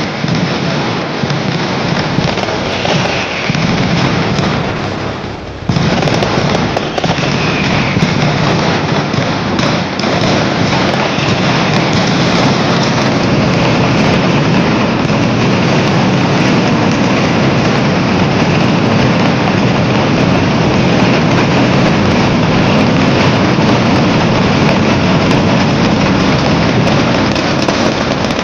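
Loud, dense barrage of firework bangers going off in rapid, overlapping cracks, with a brief lull about five seconds in before the barrage resumes and keeps up unbroken.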